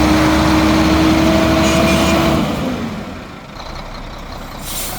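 Sinotruk NX tractor truck with its 430 horsepower Weichai diesel running loudly with a steady tone, dropping to a quieter rumble after about two and a half seconds. A short hiss of released air comes near the end.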